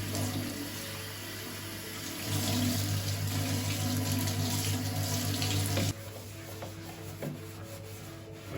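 Kitchen tap running into a sink as an even rush of water, shut off suddenly about six seconds in.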